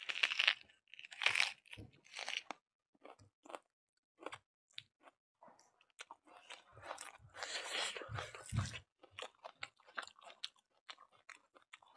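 Close chewing and crunching as two people eat chicken with rice and raw greens by hand: irregular crisp bites and chews, thickest about two-thirds of the way through.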